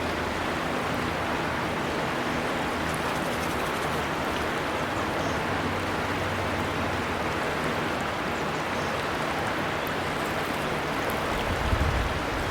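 Steady rushing of a gently flowing river. A short low rumble comes near the end.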